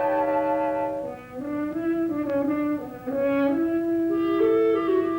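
Orchestral film score: sustained brass notes, French horn to the fore, moving slowly from note to note in a tense, drawn-out phrase.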